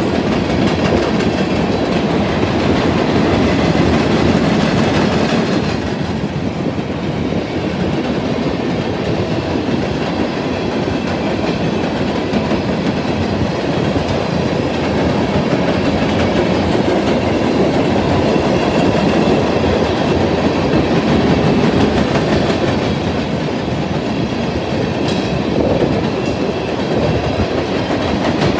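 Freight train of open-top hopper cars rolling past: a steady rumble of steel wheels on rail, with repeated clicks from the wheels.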